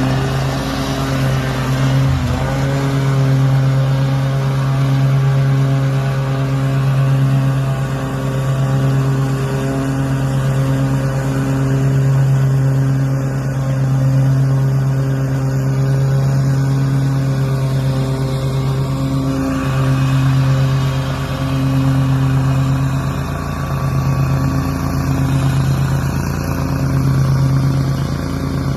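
An engine running steadily at one constant pitch, its loudness swelling and fading every couple of seconds.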